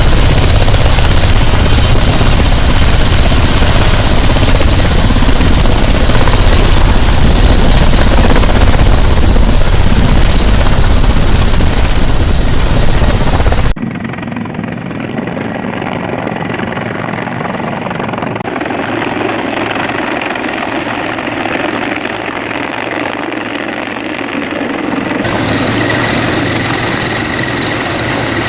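Loud, steady helicopter rotor and turbine noise. About halfway through it cuts abruptly to a quieter helicopter or engine drone, which changes character twice more as the clips switch. A thin steady whine is heard near the end.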